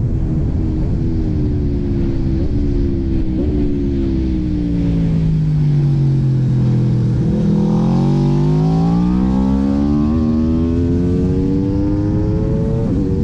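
Aprilia RSV4 Factory's V4 engine slowing, its pitch falling for about seven seconds with two quick throttle blips on downshifts, then revving up again with two upshifts near the end.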